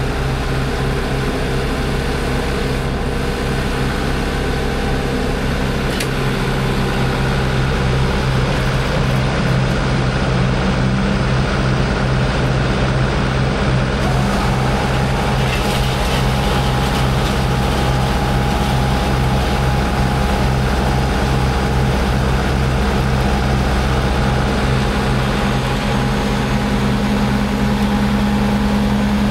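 Heavy diesel engine running steadily with a low pulsing drone. About halfway through, a higher steady whine joins it.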